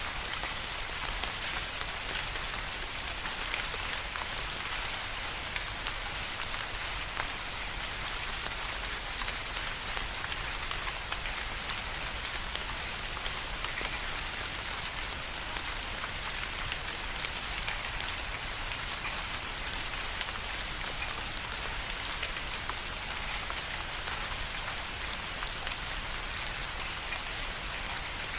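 Steady rain falling, an even hiss with many distinct drops ticking and pattering on a surface.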